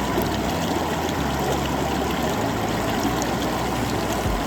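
Steady rush of flowing water from a small waterfall and a shallow river.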